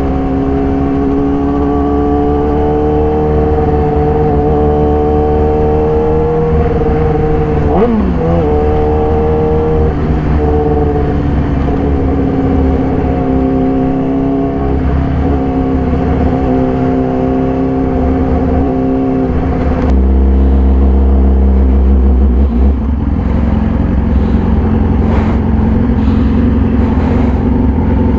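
2014 Yamaha YZF-R6's inline-four engine, breathing through an SC-Project full exhaust, running steadily while the bike is ridden. About eight seconds in the pitch dips and rises briefly. From about twenty seconds a heavier low rumble joins it.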